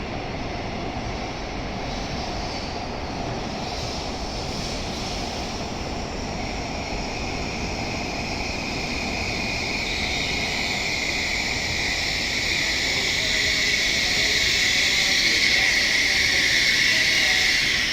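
N700S Shinkansen train pulling into the platform, growing steadily louder, with a high whine that slowly falls in pitch as it slows.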